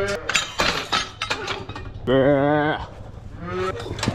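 Cattle bawling: a drawn-out call about two seconds in, with shorter calls just before it and near the end, among scattered knocks and rustling.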